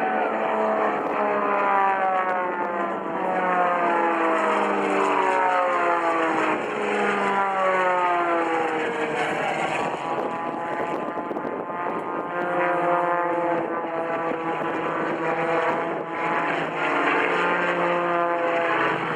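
Propeller airplanes flying past, their engine drone sliding down in pitch as each one passes, over and over.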